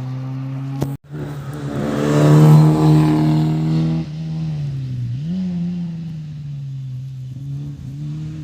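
Rally car engine held at high revs, swelling to its loudest as the car passes at full throttle, then falling away; midway the pitch dips and climbs again.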